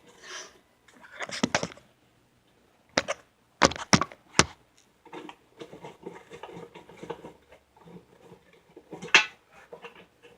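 Hand tools working the pan bolts out of a TH350 transmission: scattered sharp metallic clicks and clinks, with faint scraping between them.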